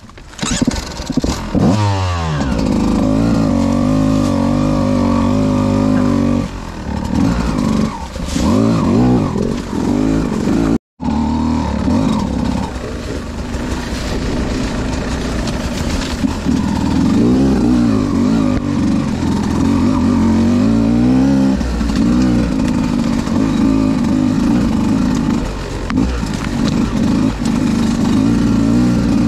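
Beta 200 RR two-stroke single-cylinder dirt bike engine revving up and down on a technical trail. The note rises and falls with the throttle, with a quick rise near the start. The sound cuts out for a split second about eleven seconds in.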